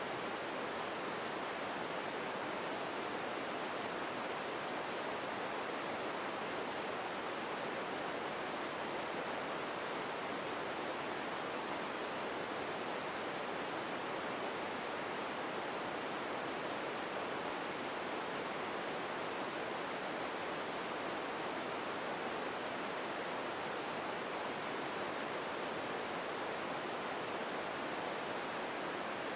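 Steady, even empty-room ambience noise: a soft, unchanging hiss with no distinct events, fullest in the middle range and thin in the lows.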